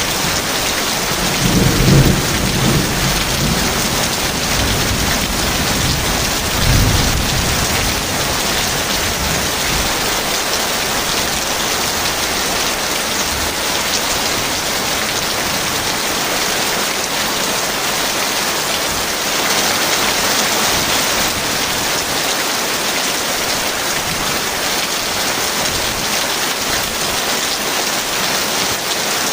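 Heavy rain falling steadily, with a rumble of thunder about two seconds in and a shorter one near seven seconds.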